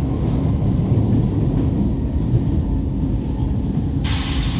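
First-generation Brussels metro train (M1–M5 series) running with a steady low rumble and a faint steady hum. Near the end a sudden loud hiss of air starts and carries on.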